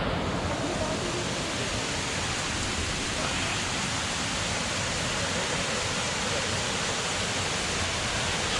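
Water rushing steadily from a jungle stream or waterfall, an even, unbroken hiss.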